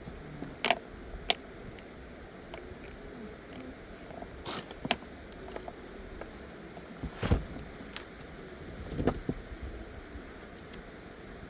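About half a dozen sharp knocks and clunks at irregular times over a steady background hiss, the loudest a little over seven seconds in.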